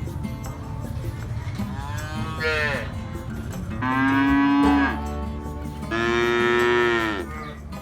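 Cows mooing: three long moos about two, four and six seconds in, each sinking in pitch at the end, the middle one loudest.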